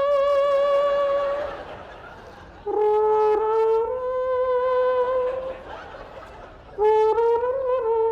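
A man's voice doing a trumpet-style fanfare, three long held notes, each scooping up at the start and wavering slightly, with short breaks between them.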